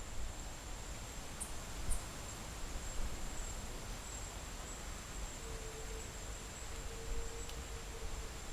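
Quiet outdoor nature ambience: a steady high-pitched insect drone over a soft low rumble, with a faint low hum in the last few seconds.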